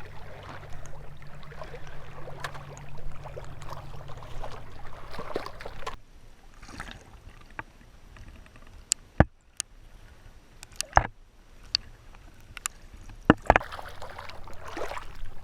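Small waves lapping at the shore, with a low steady hum for the first few seconds. In the second half a handful of sharp clicks and knocks, handling noise.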